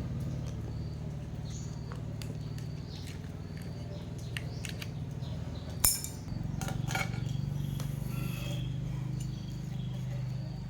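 Scattered light metallic clinks and taps, the loudest a sharp clink about six seconds in, over a steady low hum, with faint chirps from birds.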